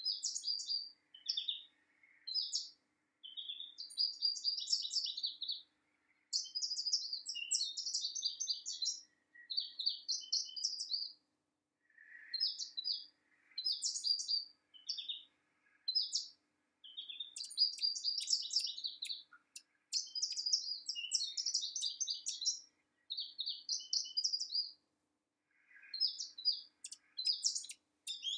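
Small birds chirping and twittering in a string of high-pitched phrases, each a second or two long with short pauses between.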